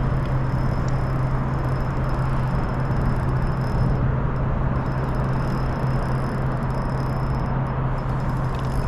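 A steady low mechanical hum under an even rushing noise, with a faint thin high whine, unchanging throughout.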